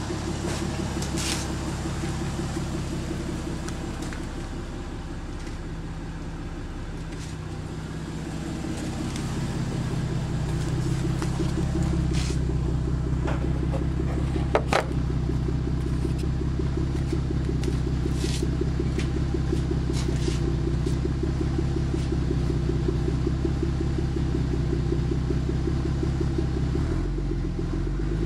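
Toyota Aristo's 2JZ-GTE twin-turbo straight-six idling through a dual exhaust, a steady low exhaust note that grows louder about nine seconds in. A few short sharp clicks sound over it in the middle.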